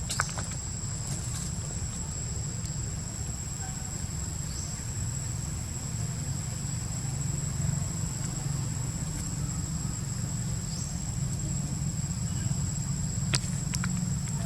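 A steady, very high-pitched insect drone over a low steady rumble, with a couple of sharp clicks near the end.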